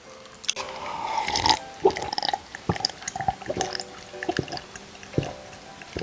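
Close-miked wet mouth sounds of eating and drinking: a wet, noisy stretch of chewing or swallowing early on, then a string of short sharp smacks and clicks.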